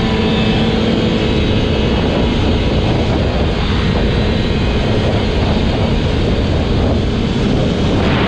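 Snow plow truck's engine running steadily while driving, with constant low road and engine noise.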